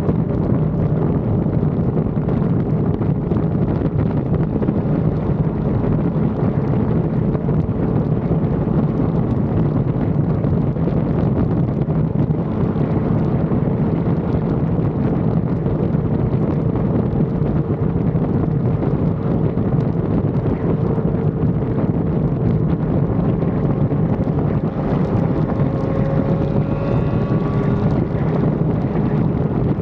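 Wind rushing over an action camera's microphone while riding a sport motorcycle at a steady speed, with the engine's steady drone underneath. A few faint higher tones come in near the end.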